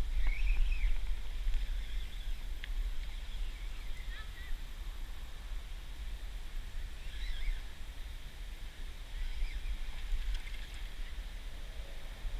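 Outdoor creek-side ambience: a few short, scattered bird chirps every couple of seconds over a steady low rumble.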